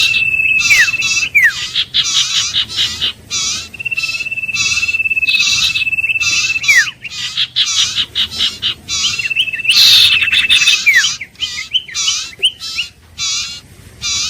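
Iora singing: a long, steady whistle held for a second or two, ending in a quick falling note, given three times at intervals of several seconds. Behind it runs a fast, regular series of higher chirps.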